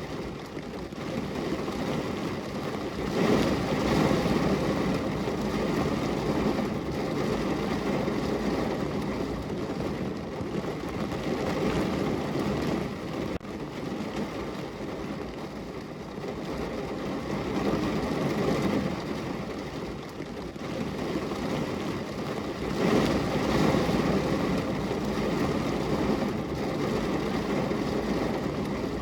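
Heavy rain drumming on a car's roof and body, heard from inside the car. It is a dense, steady patter that swells louder in gusts a few seconds in, again past the middle, and again near the end.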